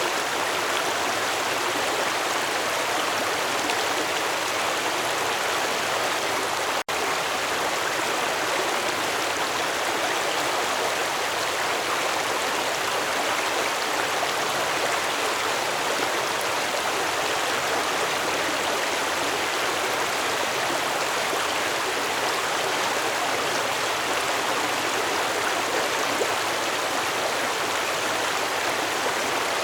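Stream water flowing steadily over rocks, an even rushing and babbling with a split-second gap about seven seconds in.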